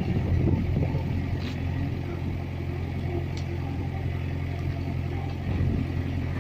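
Diesel engine running steadily at an even speed, a low, unchanging hum.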